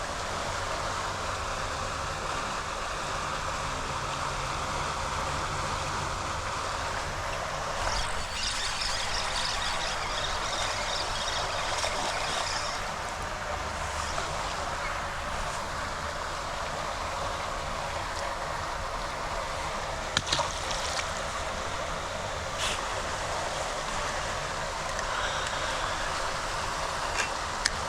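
Floodwater rushing steadily out of a storm drain, a constant noisy rush, with a few sharp clicks here and there.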